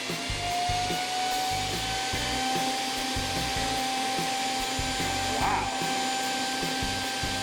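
Shark IQ self-empty base station's suction motor running as it empties the robot vacuum's dustbin. Its whine rises in pitch and settles to a steady tone about a second in.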